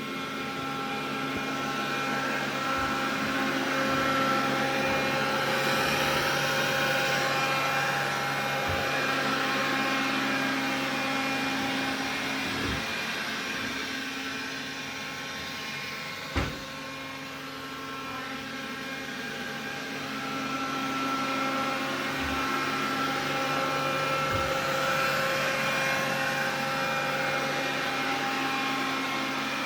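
Xiaomi vacuum cleaner running, with a steady whine of several tones over a rushing noise that swells, dies down around the middle and swells again. A single sharp knock about sixteen seconds in. This is the extraneous noise the owner is recording.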